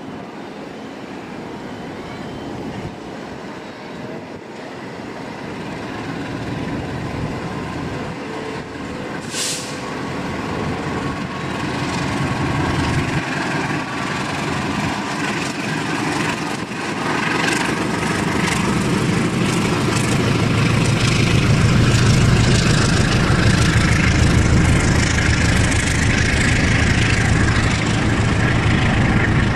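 KAI diesel-electric locomotive hauling a passenger train past, with the engine's rumble and the wheels running on the rails growing steadily louder as it nears. It is loudest over the last third as the locomotive and coaches go by.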